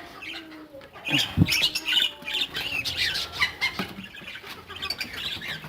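Aviary birds, cockatiels and budgerigars, chirping and squawking in many short calls, with a single dull thump about a second and a half in.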